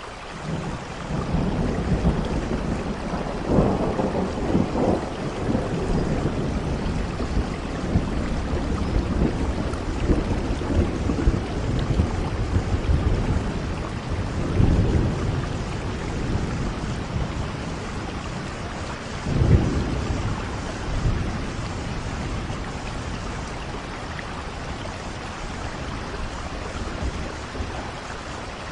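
Steady rain falling, with thunder rolling through it: the rumbling builds about a second in, swells several times, peaks in one sharp clap about two-thirds of the way through, then dies back to the rain alone near the end.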